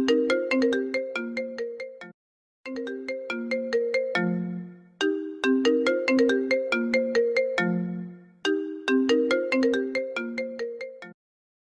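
Apple ringtone playing on a loop: a short melody of quick, struck, decaying notes repeats about four times, with a brief silent break about two seconds in and another near the end.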